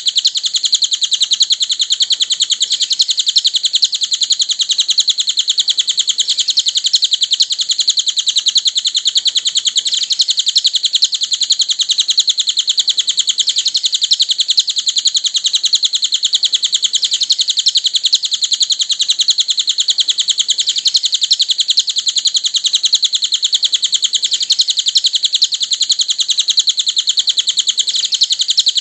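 A cililin songbird's continuous, very rapid high-pitched chirping trill, without a break. It is a masteran track, a song recording played to train cage birds to sing.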